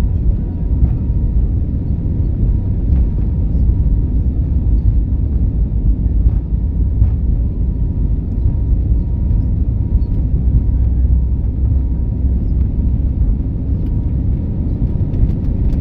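Steady low rumble of airliner cabin noise from the engines and rushing air, with a faint steady hum.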